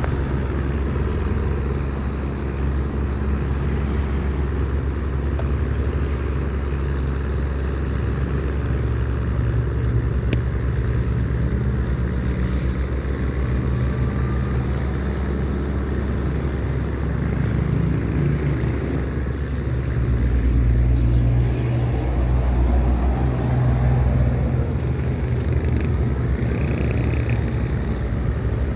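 Small wooden tugboat's diesel engine running steadily under load while towing four heavy pontoons: a low, even drone that gets a little louder, its pitch shifting, about two-thirds of the way through.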